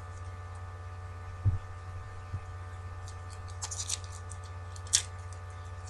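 Steady electrical mains hum, with a few brief faint taps and rustles: one about one and a half seconds in, the sharpest near five seconds.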